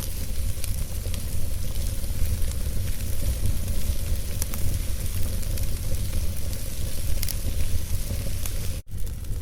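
Logs burning in a fireplace, crackling and popping with scattered sharp snaps over a steady low rumble of the flames. The sound cuts out for a split second near the end.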